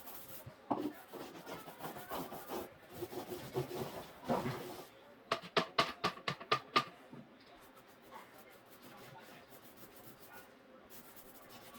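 Paint being applied to a drywall patch: rubbing, scraping strokes of the applicator on the wall, with a quick run of about seven sharper strokes around the middle, then quieter.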